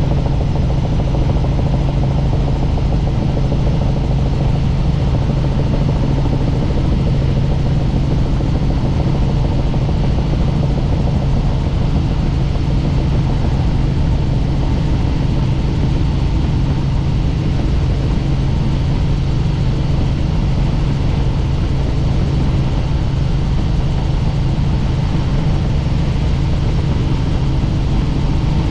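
Helicopter in flight: the steady, unbroken drone of its engine and rotor, with a strong low hum.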